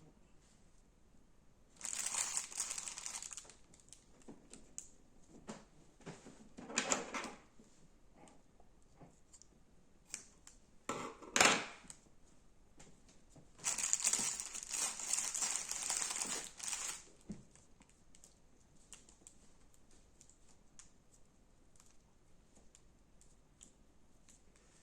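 Slime being squeezed and pressed by hand, crackling and crunching in four bursts with quiet pauses between, the longest burst about halfway through.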